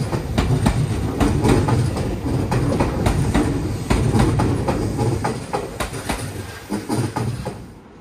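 Tobu Railway electric train running past, its wheels clacking over rail joints in quick succession over a low rumble. The sound drops away sharply near the end as the train clears.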